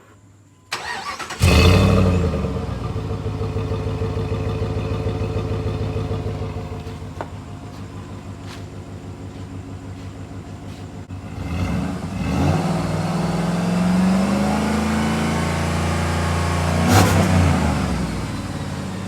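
Jeep Grand Cherokee engine on its stock exhaust being cranked and catching about a second and a half in, running at a fast idle that settles lower. From about eleven seconds in it is revved, the pitch rising and held, with a sharp blip near the end before it drops back.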